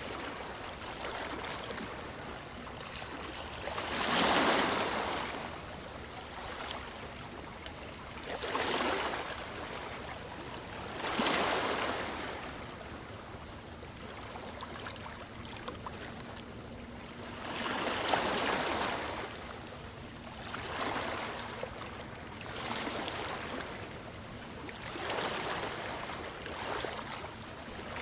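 Sea waves breaking and washing on a shore: a constant hiss of water that swells into a louder surge every few seconds, about seven times.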